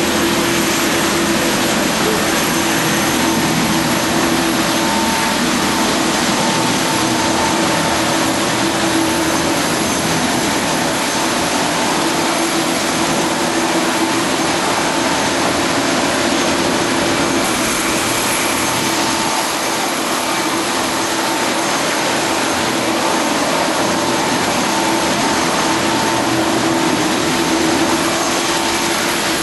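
Police helicopter running close by: a loud, steady rush of turbine and rotor noise with a steady whine, unchanging throughout.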